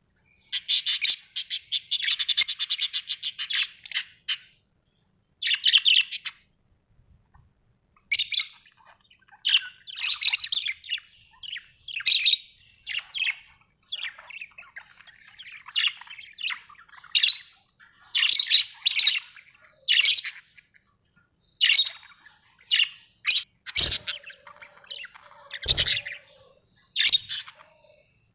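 Birds chirping and squawking in short, high calls. A long chattering burst comes near the start, then a steady run of separate calls follows. Two low thumps come near the end.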